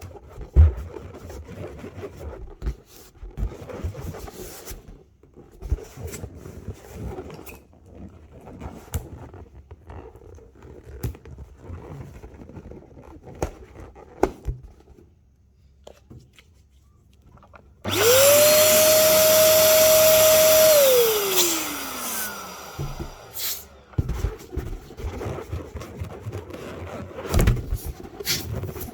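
Rubber balloons being handled, with scattered small squeaks and rustles, then an electric balloon pump switched on for about three seconds: a loud steady whine that drops in pitch as the motor winds down.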